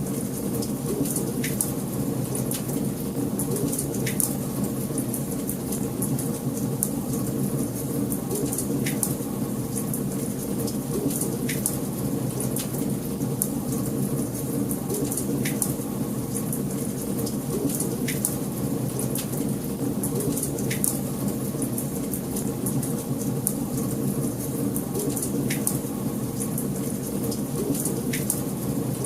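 Wood fire burning in a fireplace: a steady low rush with sharp crackles and pops every second or two.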